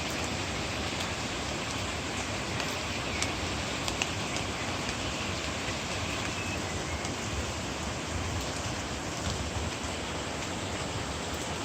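Steady rain falling, with a few sharp drop ticks scattered through it.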